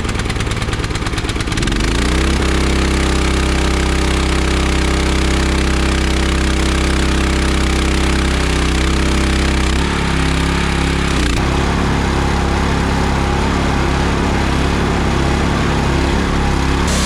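Steam pressure washer's engine running just after starting, climbing to speed over the first two seconds and then running steadily; its note changes around ten seconds in and again a moment later, as the pump's load shifts.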